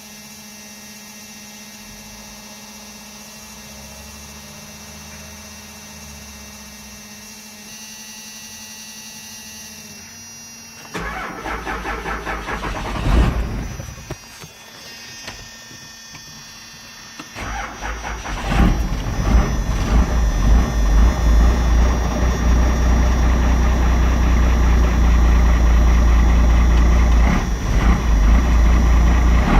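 Cold start of a 1997 Dodge 12-valve Cummins diesel with a straight-piped 4-inch exhaust: after a faint steady hum, the starter cranks for a few seconds and stops, then cranks again and the engine catches about eighteen seconds in and runs loudly at idle.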